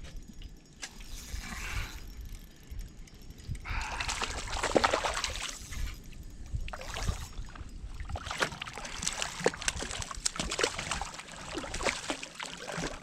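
Water splashing and sloshing around a small boat, with scattered knocks and clicks. A louder splash comes about four seconds in.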